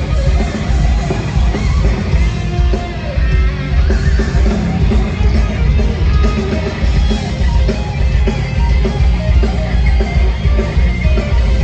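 Heavy metal band playing live: electric guitars over bass and drums, loud and continuous.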